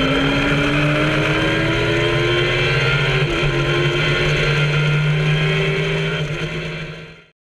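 Kawasaki ZX-10R inline-four motorcycle engine in an MK Indy open-cockpit track car, pulling hard under power out of a corner. Its pitch rises steadily, with a brief dip a little past three seconds. The sound fades out near the end.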